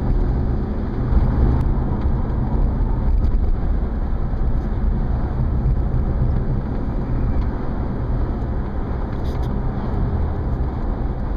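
Steady road and engine noise inside a moving car's cabin: a constant low rumble with hiss.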